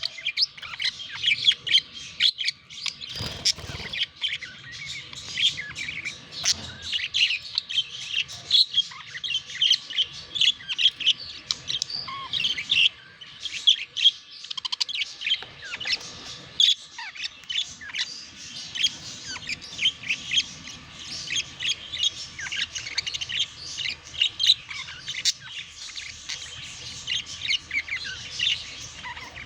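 Budgerigars chattering and warbling in a dense, continuous run of quick chirps. A short low thump comes about three seconds in.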